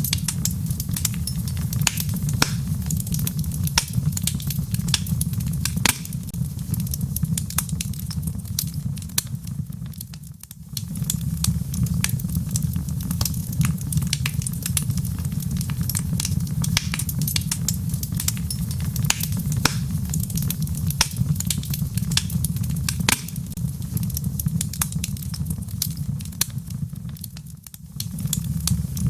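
Wood logs burning in a fireplace, crackling with many sharp pops over a steady low rumble. The sound briefly drops away twice, about ten seconds in and again near the end.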